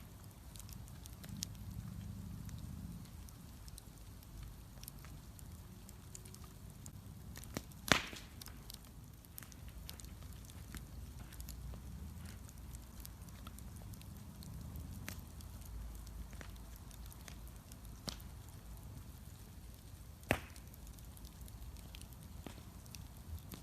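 Wood bonfire crackling with scattered small clicks over a low rumble of the flames, and two sharp loud pops, one about eight seconds in and another about twenty seconds in.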